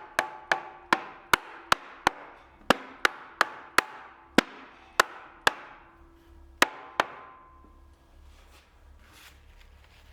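Rubber mallet tapping the glued dowel joints of an oak chair's legs into place: about fifteen sharp knocks, two or three a second, with a short wooden ring after some, stopping about seven seconds in.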